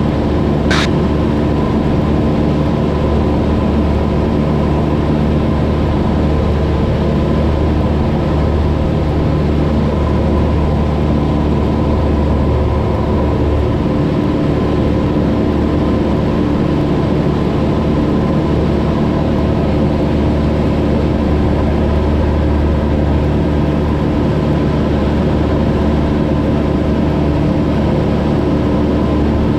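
Cessna 172's four-cylinder piston engine and propeller droning steadily in cruise, heard from inside the cabin. A brief high blip sounds just under a second in.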